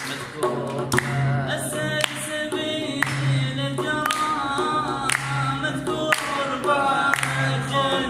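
A male voice singing a mawliya, the Iraqi folk song form, with ornamented, wavering melodic lines. Underneath is an accompaniment with a recurring low held note and sharp percussive hits.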